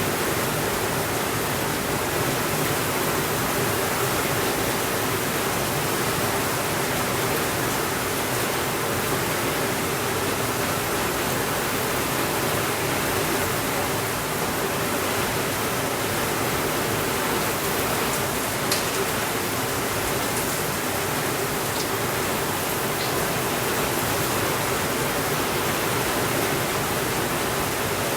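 Steady hiss of heavy rain falling, even and unbroken, with a few faint crackling pops from a wood fire in the second half.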